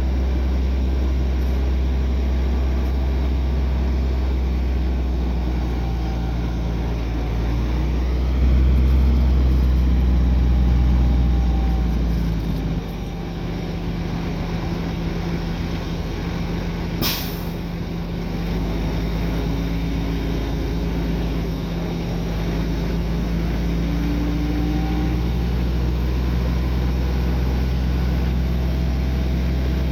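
Heavy diesel engines of earthmoving machinery, a bulldozer and a dump truck, running steadily, louder for a few seconds about a third of the way in. About halfway through comes a short sharp hiss.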